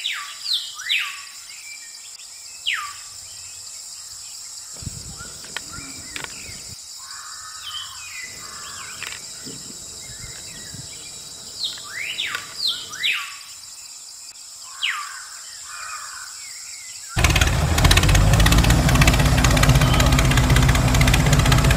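Birds chirping, with clusters of quick downward-sweeping calls over a faint background. About seventeen seconds in, a loud, steady engine sound with a low rumble cuts in suddenly.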